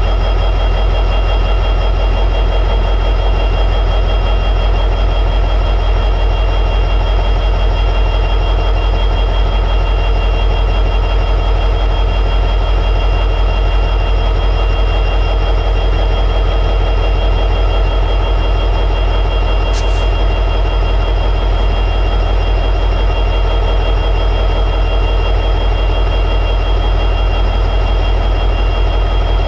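EMD 710G3B two-stroke diesel prime mover of an SD60E locomotive running steadily at high idle.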